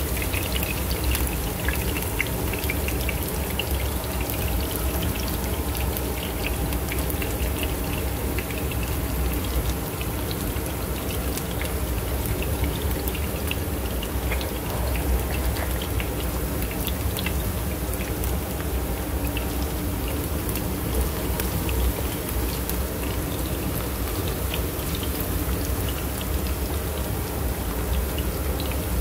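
Diced onions and garlic frying in oil in an electric skillet, with a steady sizzle full of small crackles and pops and a low hum underneath.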